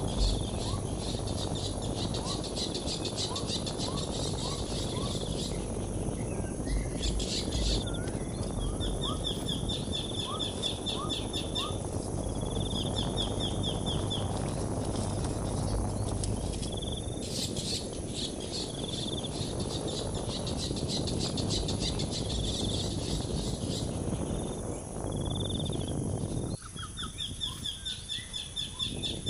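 High trilling chirps in short repeated series and rapid buzzy pulsing of insects, with small bird chirps, over a steady low rushing noise that drops away near the end.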